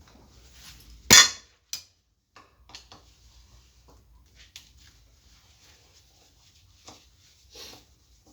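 Metal parts and tools being handled: one loud clank about a second in, followed by scattered lighter clicks and knocks.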